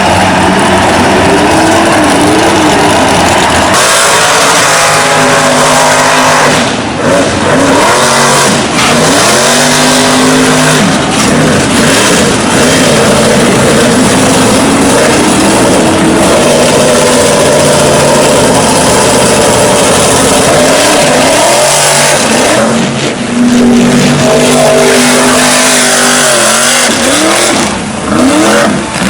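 Mega mud truck's engine revving hard and repeatedly, its pitch sweeping up and falling back as the driver holds the throttle down through deep mud, over a steady rushing noise.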